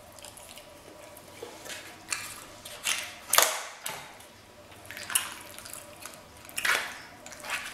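Close-up wet chewing and lip-smacking of a mouthful of creamy baked ziti pasta. It comes as a string of sharp wet clicks about a second apart, the loudest about three and a half seconds in.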